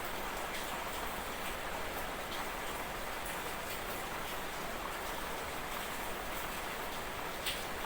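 Light drizzle falling as a steady hiss, with scattered drops ticking, one a little louder near the end.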